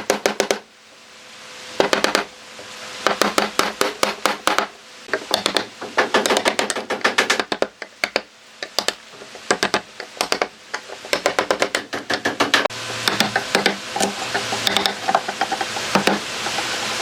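Irregular runs of sharp knocks and clicks, several a second, from hard objects striking one another.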